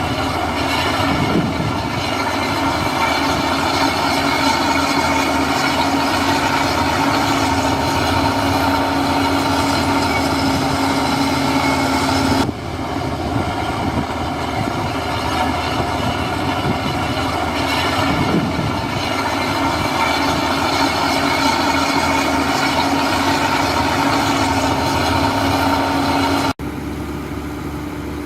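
Heavy diesel construction machinery running steadily under load. The sound changes abruptly twice, about twelve seconds in and again near the end, where it becomes quieter.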